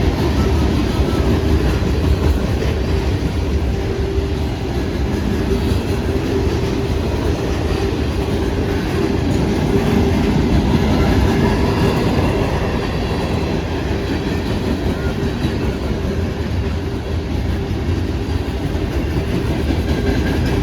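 CSX local freight train rolling past, its cars' wheels clattering steadily over the rails with a continuous rumble.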